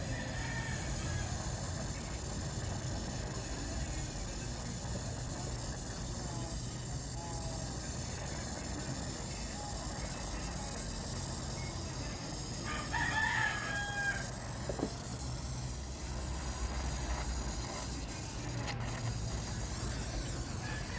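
A rooster crowing once, a call of about a second and a half roughly 13 seconds in, over a steady low rumble.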